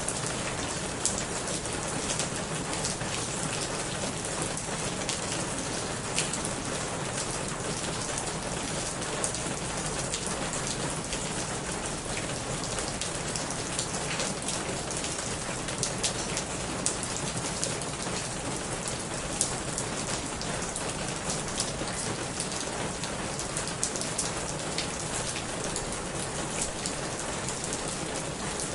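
Steady rain falling on a corrugated roof and leaves, with many sharp drop ticks scattered through it.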